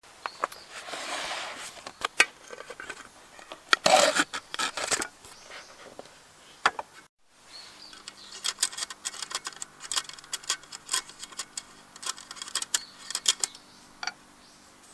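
Hands handling small hard objects: a string of light clicks, clinks and short scrapes, with a brief complete dropout about seven seconds in.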